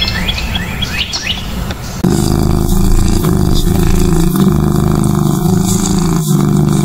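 Brown thrasher calls with short falling notes for the first couple of seconds. About two seconds in the sound cuts to a louder, steady low rumble that runs on.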